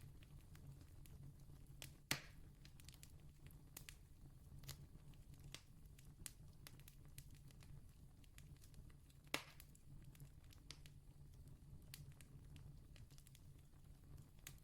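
Wood campfire crackling quietly, with scattered small pops and two louder snaps, one about two seconds in and another about nine seconds in, over a low steady hum.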